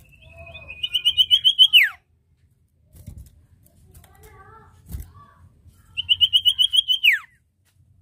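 A common iora (sirtu/cipoh) calls twice. Each call is a held whistle that breaks into a rapid trill of about eight notes a second and ends in a sharp downward slur. Softer chattering notes come between the calls, with a single thump about five seconds in.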